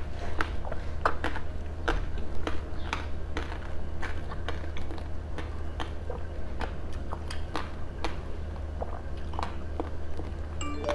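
Close-up eating sounds of a person biting and chewing green jelly studded with dark seeds: sharp, irregular wet mouth clicks, about two or three a second, over a steady low hum.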